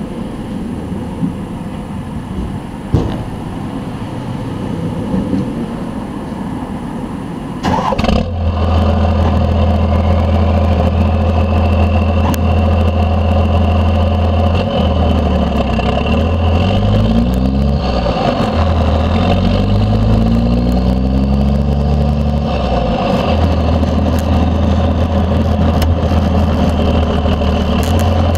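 1992 Dodge D350's 12-valve Cummins turbo-diesel, straight-piped through a 5-inch stack, gets suddenly much louder about a quarter of the way in. It then runs with a high turbo whistle that climbs in pitch, and the engine note rises and falls in the middle as it revs.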